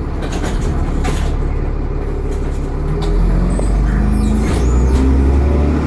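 Dennis Trident 2 double-decker bus's diesel engine accelerating, its pitch and loudness rising from about three seconds in, with a faint high turbo whine.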